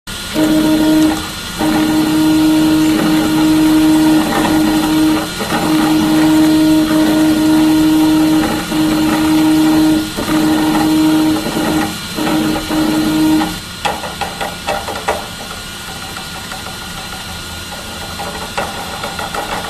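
Prusa i3 MK2 3D printer running: a steady pitched hum in long stretches broken by short pauses, as the Y-axis bed travels back and forth, the noise the owner puts down to its Y-axis bearings. After about 14 seconds the hum stops and a quieter whir with quick clicks and rattles follows.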